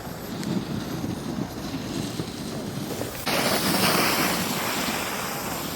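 Wind rushing over the microphone with the hiss of edges sliding over packed snow while riding down a ski slope. The hiss gets suddenly louder and brighter about three seconds in, then slowly eases.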